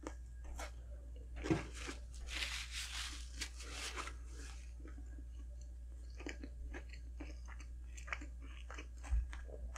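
A person eating McDonald's food close to the microphone: a louder bite about a second and a half in, then a stretch of chewing and scattered wet mouth clicks. A soft low thump comes near the end.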